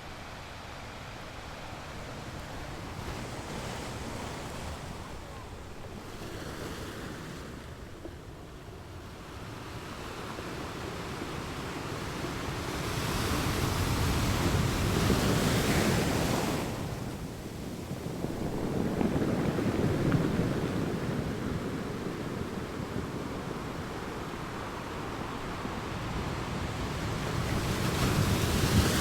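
Ocean waves breaking on a rocky beach, with a steady wash of surf. Larger waves crash and swell loudest about halfway through, again a few seconds later, and once more near the end.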